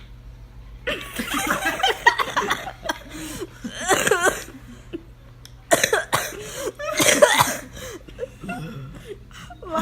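A person coughing hard in two loud fits, mixed with laughter.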